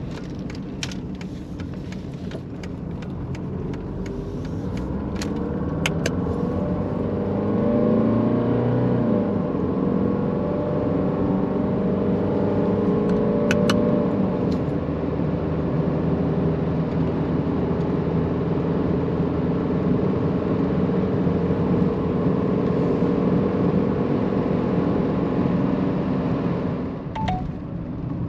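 Mercedes-Benz 190D's diesel engine pulling the car away, rising in pitch and loudness over the first several seconds, then running steadily at cruising speed with road noise. A scatter of light ticks in the first six seconds, and a pair of sharp clicks about 13 seconds in.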